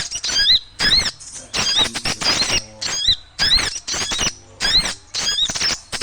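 Small birds chattering noisily: burst after burst of high, quick rising chirps, several birds overlapping, with short gaps between the bursts about every half second.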